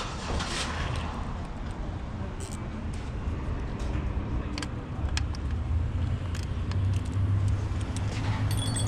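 Car engine running at idle, a steady low rumble that grows louder over the last few seconds, with scattered light metallic clinks of hand tools.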